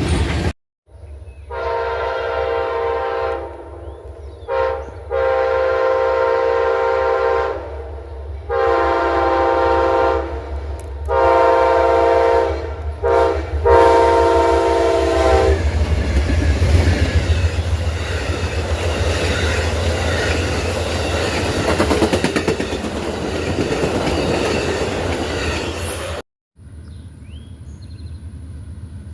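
Diesel locomotive horn sounding a series of long and short blasts, then the train rolling past with a loud rumble and clatter of wheels on rail.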